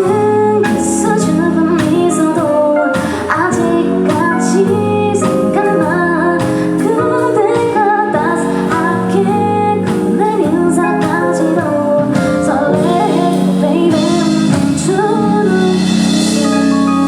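A woman singing a pop song over a live band.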